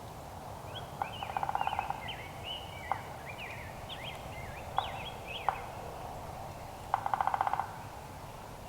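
Wild animal calls: two rapid rattling calls, about a second and then about three-quarters of a second long, one a second in and one near the end. Between them come high twittering chirps and three sharp taps.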